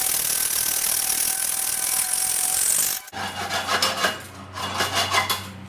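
A hacksaw sawing through copper wire. The sawing is steady for about three seconds, then breaks up into a few separate strokes as a low hum comes in.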